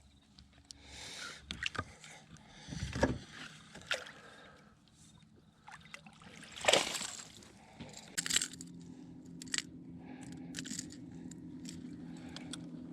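Water splashing, with knocks and scrapes against a kayak, as a hooked bass is brought alongside and landed; the loudest splash comes about seven seconds in. From about eight seconds a steady low electric hum sets in, typical of a trolling motor holding position on spot-lock.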